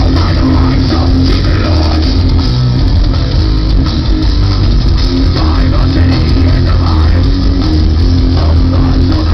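Loud live heavy metal through a festival PA: distorted electric guitars, bass and drum kit playing without a break.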